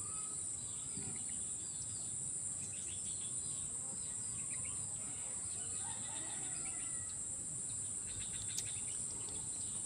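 Steady high-pitched chorus of insects, with short bird chirps scattered over it.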